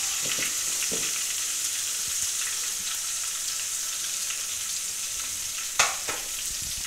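Ginger-garlic paste and cumin seeds frying in hot ghee in a karahi, a steady sizzle. Two sharp knocks come close together about six seconds in.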